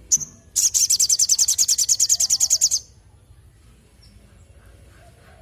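A sogon (sogok ontong, a spiderhunter) singing: one sharp high chirp, then a loud, rapid trill of high notes, about ten a second, lasting about two seconds.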